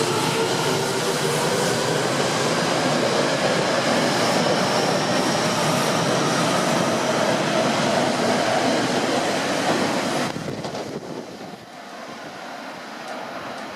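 Tokyo Metro 7000 series train accelerating in a subway station, its traction-motor whine rising steadily in pitch over the running noise of the wheels. About ten seconds in, the sound drops off sharply to a fainter rumble as the train moves away.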